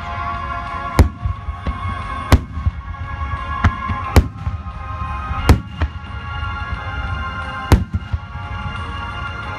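Aerial firework shells bursting in sharp bangs, about five loud ones and several smaller ones spread irregularly, over steady music and a constant low rumble.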